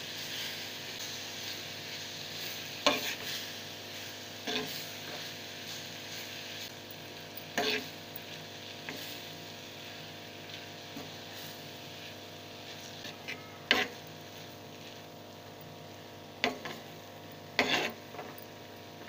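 Grated beetroot sizzling as it sautés in a clay pot for halwa, stirred with a metal spoon: a steady sizzle with a sharp scrape or clink of the spoon against the pot every few seconds.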